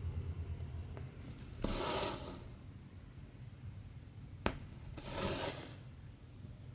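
Cotton embroidery thread drawn through 14-count cross-stitch fabric: two short swishing pulls about three seconds apart, with a single sharp click between them.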